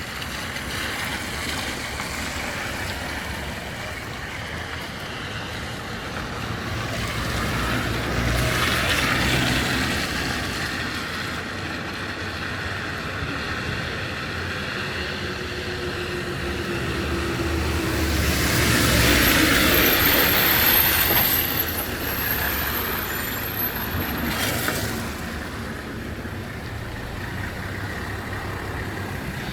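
Road traffic: a steady hum of passing vehicles, with two louder vehicles going by, one about eight seconds in and one around nineteen seconds in whose engine tone falls as it passes.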